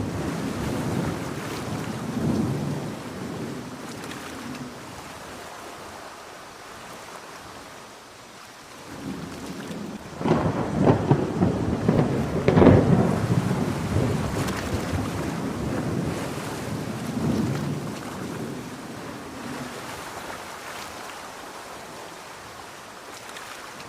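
Steady heavy rain with thunder rolling. A loud rumble builds about ten seconds in, peaks a couple of seconds later and slowly dies away.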